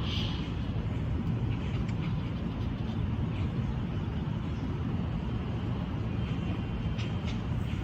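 Steady low rumble of distant road traffic, with small birds chirping faintly now and then, mostly near the start and near the end.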